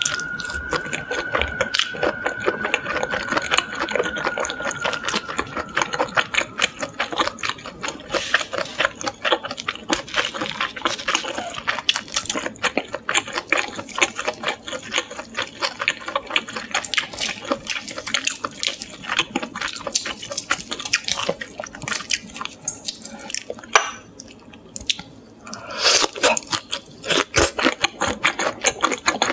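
Close-miked wet chewing of grilled shrimp: a rapid run of smacking, clicking mouth sounds that pauses briefly near the end, then resumes.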